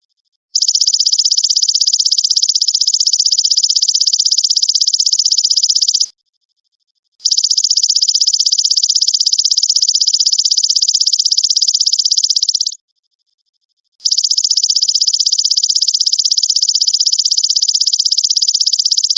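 Belalang emas (golden grasshopper) insect song: three long, high, fast-pulsed trills of about five and a half seconds each, separated by short pauses of about a second.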